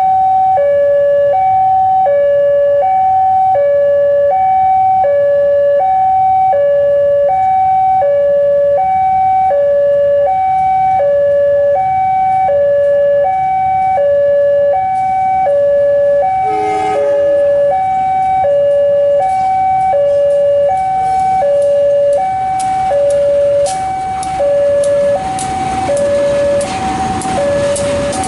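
Railway level-crossing alarm sounding a steady two-tone warning, low and high notes alternating about once a second. Over the last few seconds the noise of an approaching train grows beneath it.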